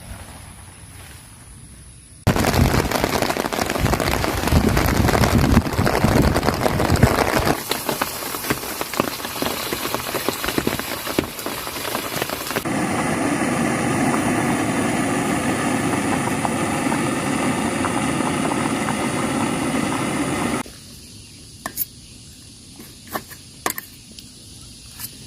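Heavy rain falling on a tent or tarp, a loud, even noise that cuts in after about two seconds and changes in abrupt steps. Near the end it stops suddenly, leaving a few scattered sharp taps.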